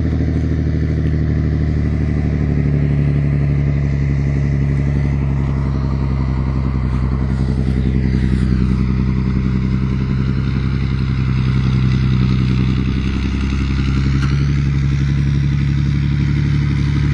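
Scania 112 truck's diesel engine pulling hard and steady under the heavy load of a loaded bitrem, a constant low drone. Its note dips briefly about two-thirds of the way through.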